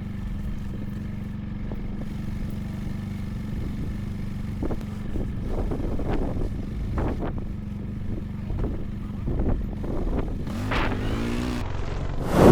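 ATV engine running steadily, with a scatter of sharp knocks and clanks from about halfway through and a brief change in engine pitch near the end.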